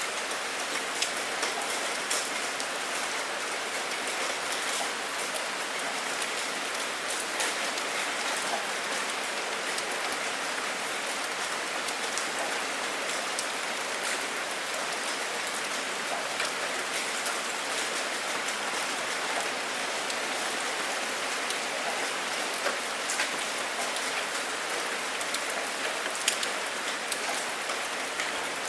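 Steady rain, an even hiss with sharp ticks of single drops striking close by every so often.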